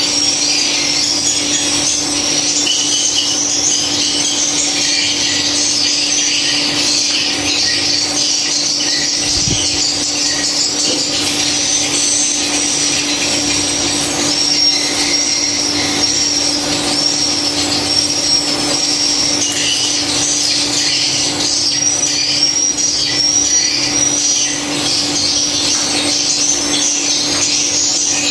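Dense, continuous high chirping and twittering of swiftlets, as heard inside a swiftlet house, with short arcing chirps repeating about twice a second in places. Under it runs a steady low hum, and there is one brief low thump about nine seconds in.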